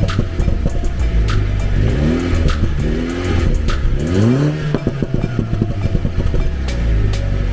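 Mini Cooper S engine revved up and let fall back several times, its exhaust popping and crackling sharply as the revs drop: overrun 'bubbling' from the standard muffler.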